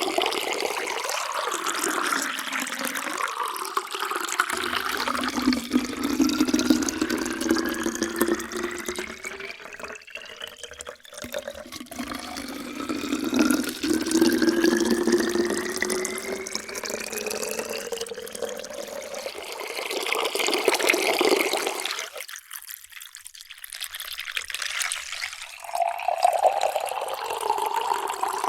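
Water pouring into a vessel, its pitch rising steadily as the vessel fills; several fills follow one another, with a short break a little over three-quarters of the way through before the next pour begins.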